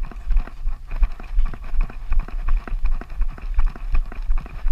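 A runner's footsteps at a steady jogging pace, about three strides a second, each landing a short thud.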